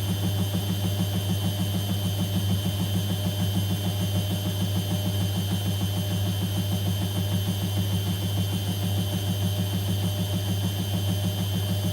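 Whirlpool washing machine running, a steady hum with a fast, even pulsing underneath and a faint high whine.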